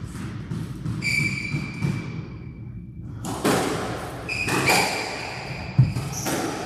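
Squash rally: the ball struck by racquets and thudding off the court walls, with shoes squeaking sharply on the court floor. The heaviest thud comes near the end.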